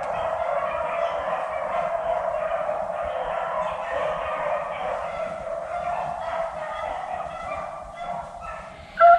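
A pack of beagles baying as they run a rabbit, many voices overlapping into a steady chorus.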